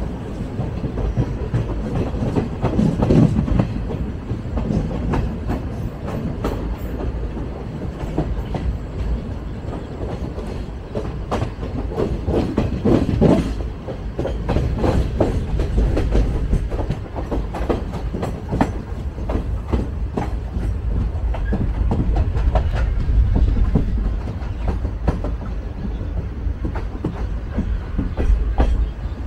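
Train running along the track, heard from on board: a steady low rumble with the clickety-clack of wheels over the rail joints.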